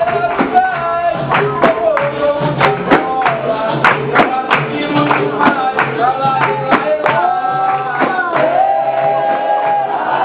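Capoeira roda music: a sung chant with a wavering melody over percussion with sharp, regular strikes, including a pandeiro-like tambourine.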